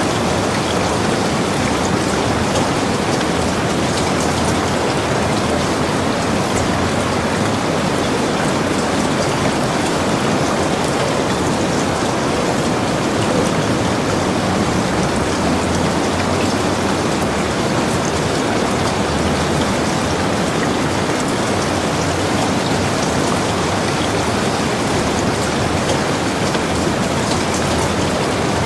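Heavy rain falling steadily, a dense even hiss of drops on the surfaces around a log cabin with fine individual drop ticks.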